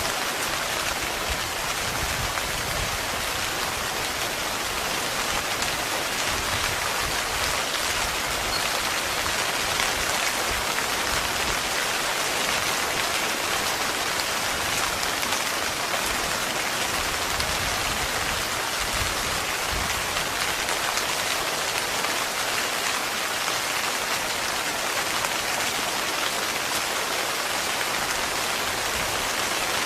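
Heavy rain falling steadily on a tent, a dense, even patter.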